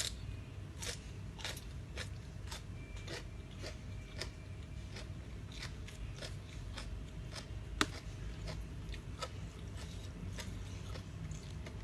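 Close-up chewing of a noodle salad with crispy fried squid: crunchy bites about two a second, with one sharper crunch about two-thirds of the way through.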